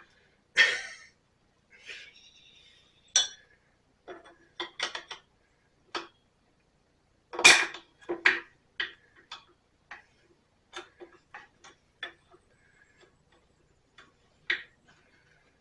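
Hand tools clicking and clinking against the metal parts of the engine in irregular single knocks, the loudest about halfway through.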